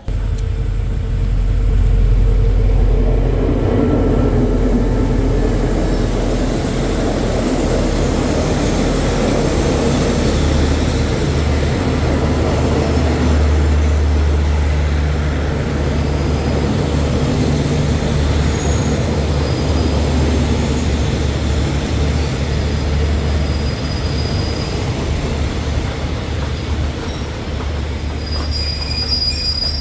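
Diesel-hauled train running close by: a steady engine drone with rail and wheel noise. A high-pitched wheel squeal begins near the end.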